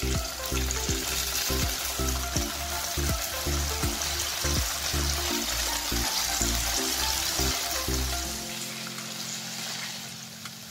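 Slices of boiled gram-flour gatta sizzling in hot oil as they fry, a steady hiss throughout.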